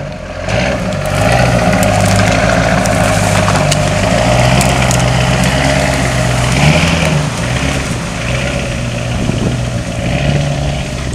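An engine running steadily close by, its pitch stepping up and down a little, with a few faint clicks.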